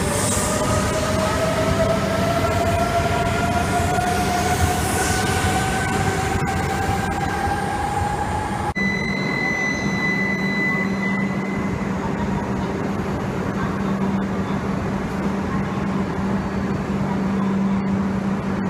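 A Shinkansen pulling through a station platform, its motors whining in several tones that rise steadily in pitch as it speeds up. About nine seconds in, the sound cuts to an E5 series Shinkansen at a platform: a steady low hum, with a brief high tone at first.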